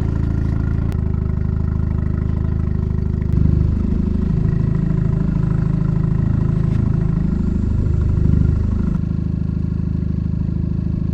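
Boat's outboard motor running steadily, then revved up and down several times for a few seconds as the boat is manoeuvred, before settling back to a steady run near the end.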